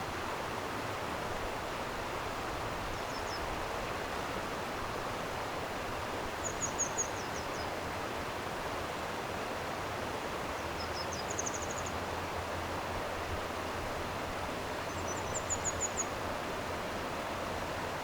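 Steady rush of a flowing stream. Over it, a small bird sings four short phrases of rapid high notes.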